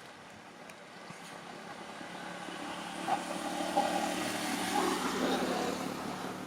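A motor vehicle passing by, its engine growing louder to a peak mid-way and then fading away.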